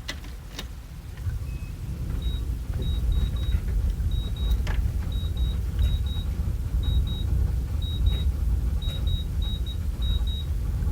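Detroit Diesel Series 60 engine in a bus running rough on a cold start in 18-degree weather, without glow plugs or intake heaters: a steady low rumble that picks up a second or two in. A dash warning beeper sounds in short pairs over it, about once a second.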